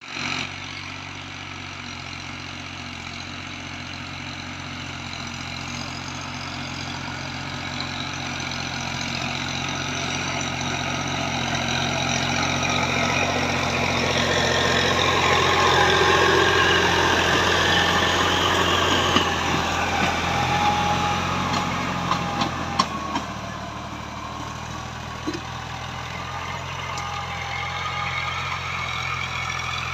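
Fiat 480 tractor's diesel engine running steadily, growing louder to a peak a little past the middle and then easing off, with its note shifting about three-quarters of the way through. A few sharp clanks come in the second half.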